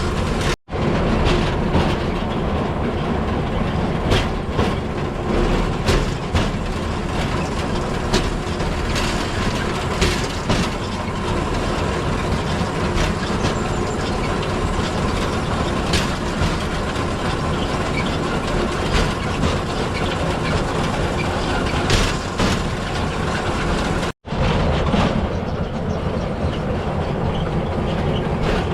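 Steel wheels of a pedal-powered rail bike (vélorail) rolling along old railway track: a steady rumble with irregular clacks every second or two as the wheels cross rail joints. The sound cuts out briefly twice, about half a second in and near the end.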